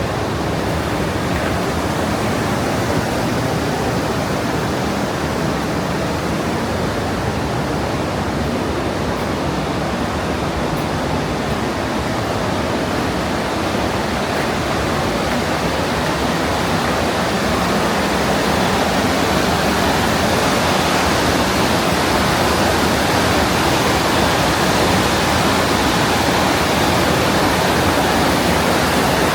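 Partnach River, a glacial-meltwater mountain stream, rushing through a narrow limestone gorge: a steady rush of water that grows louder and brighter about halfway through.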